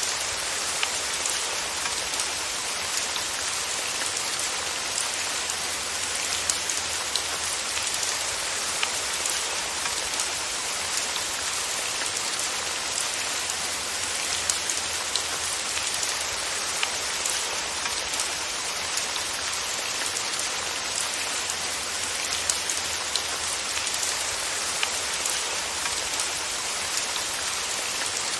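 Steady rain falling, an even hiss with many small, distinct drop patters scattered through it.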